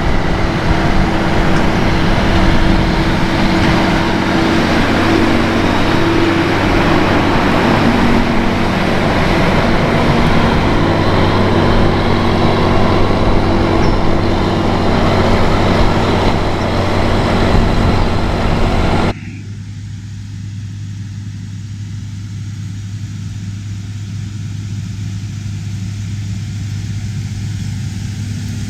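Diesel farm machinery running, loud and noisy. About two-thirds of the way through it cuts suddenly to a quieter, steadier engine sound.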